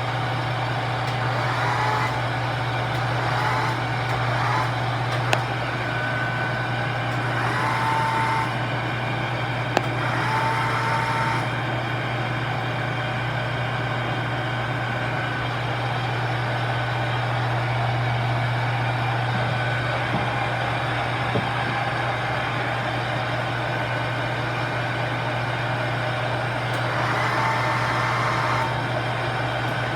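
A steady, low machine hum, with brief higher tones coming and going over it.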